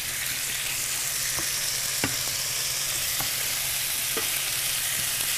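Thin slices of raw chicken breast sizzling as they go into a hot frying pan with browned garlic, with a steady hiss. A wooden spatula stirring them taps the pan a few times.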